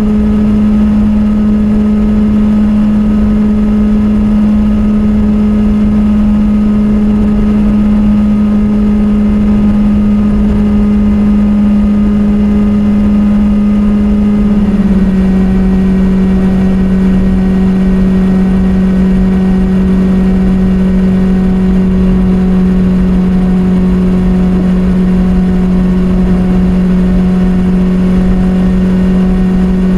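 Kawasaki Z800's inline-four engine and stock exhaust, under way at steady, near-constant revs. The note steps slightly lower about halfway through as the revs ease, then holds steady again.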